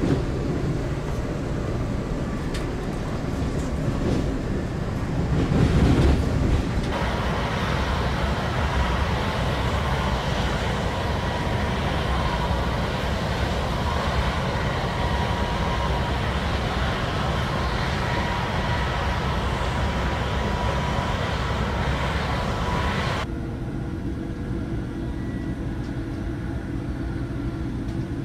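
Amtrak Acela train running at speed, heard from on board: a steady rumble and rushing noise of the moving train. About seven seconds in the noise turns louder and brighter, with a faint steady whine, and a little before the end the upper part of the noise drops away suddenly, leaving a duller rumble.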